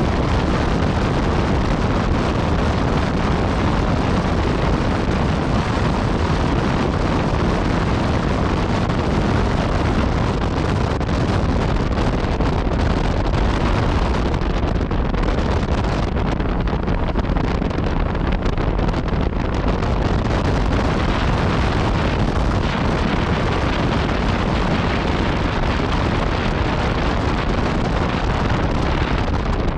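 Yamaha MT-09 Tracer's three-cylinder engine running through an Akrapovic exhaust while riding at a steady speed, mixed with heavy wind rushing over the microphone.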